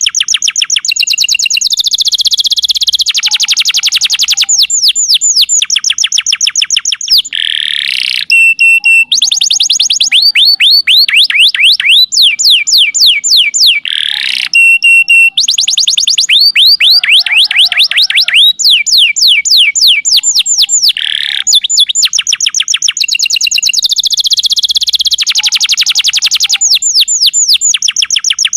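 Domestic canary singing a long, unbroken song of fast trills: phrase after phrase of rapidly repeated falling notes, each phrase changing speed and pitch every few seconds.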